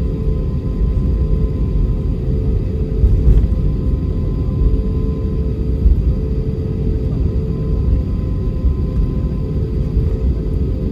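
Jet engines of an EasyJet Airbus A320-family airliner running, a steady low rumble with a constant hum over it.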